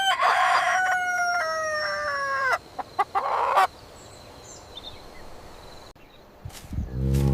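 Rooster crowing: one cock-a-doodle-doo about two and a half seconds long, its drawn-out last note sliding down in pitch, followed by a short, rougher call about three seconds in. A deep, low-pitched sound starts near the end.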